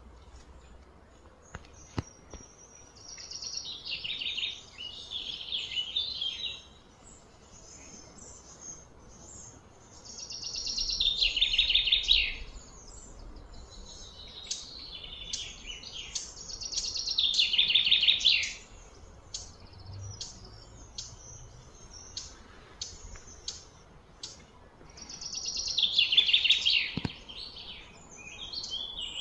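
Birds singing: four loud phrases of rapid, high notes, roughly seven seconds apart, with short sharp chirps in between.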